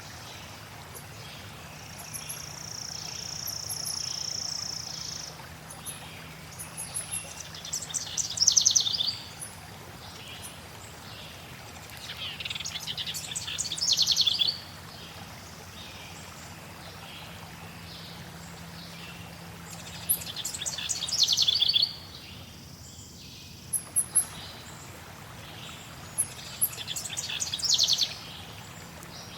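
A songbird repeats a fast, trilled song phrase four times, each swelling louder before it cuts off, about every six seconds, with one long steady whistle near the start and faint high chips between. Underneath runs a steady hiss of flowing water.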